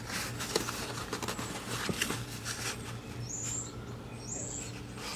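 Small clicks and handling noise as an oil filter is turned over in the hand, over a steady low hum. From about three seconds in there are short high chirps about once a second.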